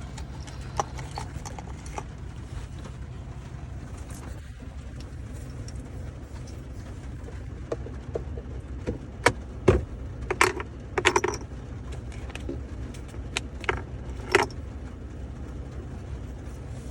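Steady low hum inside a truck's cab, with scattered short clicks, taps and rattles as a small child handles things. The clicks bunch up in the second half, the loudest knock about ten seconds in.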